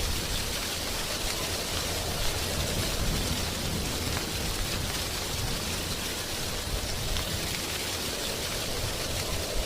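Wind blowing through tree foliage: a steady rushing rustle of leaves, brightest in the upper range, with a low rumble underneath.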